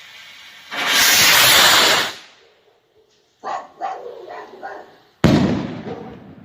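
A 3-inch ball shell firework rocket launching with a loud whoosh lasting about a second and a half. A dog barks about four times, then the shell bursts near the end with a sudden loud bang that rings out and fades.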